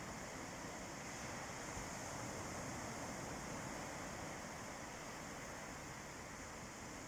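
Calm sea waves washing onto a beach: a steady, soft surf wash with no distinct breaks.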